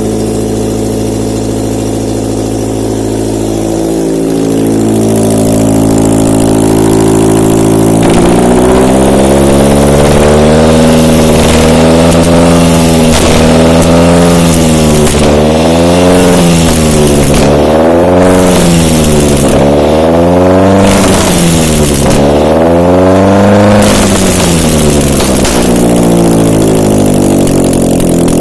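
Mazda LF-VDS 2.0-litre four-cylinder petrol engine running on a test stand: idling steadily, then revved up and down repeatedly, about eight throttle blips in a row, before settling back to idle near the end.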